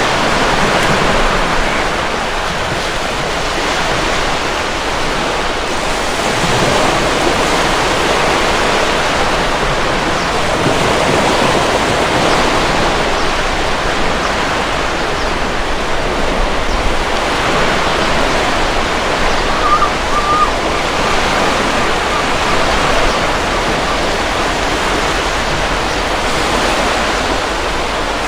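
Sea surf breaking and washing against rocks: a continuous rush of water that swells and eases gently with the waves.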